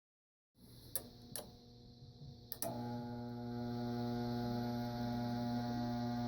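A few sharp clicks, then about two and a half seconds in a steady electrical hum starts from the air conditioning system as it is powered up. No fan runs: the blower motor has failed.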